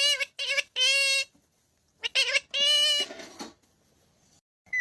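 Talking parrot making short, high-pitched, voice-like calls, a few in quick succession, then another group about a second later.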